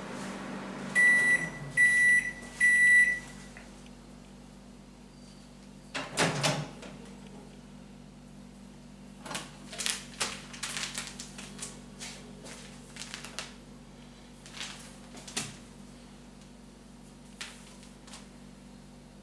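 Microwave oven ending its cycle: its running hum dies away, then three loud beeps about a second apart. About six seconds in the door opens with a clunk, followed by scattered clicks and knocks.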